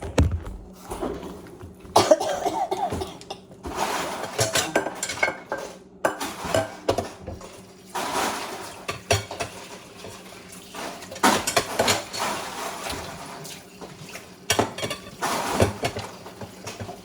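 Dishes and cutlery clattering in bursts as food and utensils are handled.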